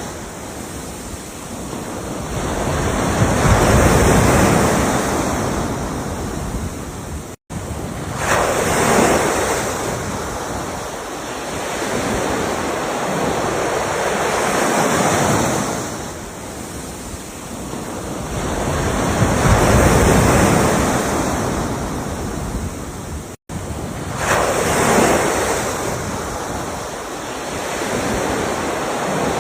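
Ocean waves breaking and washing up the shore in slow, repeating swells every few seconds. The sound cuts out for an instant twice, about 7.5 s and 23 s in.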